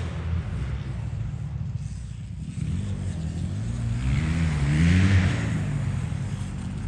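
KTM E5 electric mini dirt bike riding past, its motor whine climbing and then dropping in pitch about four to five seconds in as it accelerates and eases off. Tyre and chain hiss rises with it, over a steady low rumble.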